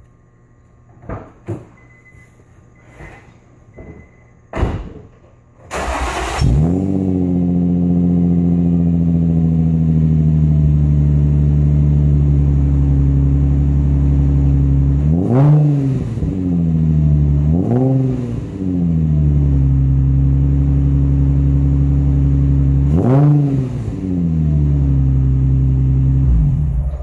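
A few sharp clicks, then an engine cranks and starts about six seconds in and settles into a steady idle, its pitch slowly sinking. It is briefly revved three times and shuts off near the end.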